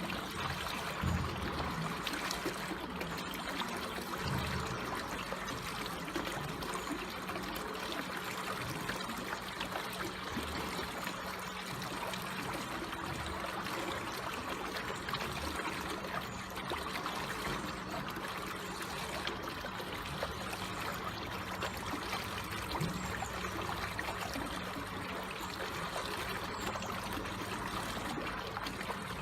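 Water flowing slowly and steadily with a continuous trickling, even throughout.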